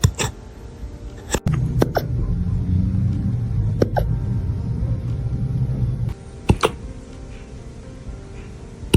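A dog hiccuping: about seven short, sharp hiccups at uneven intervals. A low rumble runs underneath through the middle few seconds.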